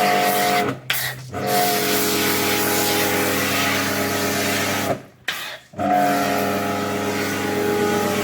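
Electric pressure washer running and spraying: a steady motor hum with a hiss of spray. It cuts out twice briefly, each time picking up again with a short slide in pitch.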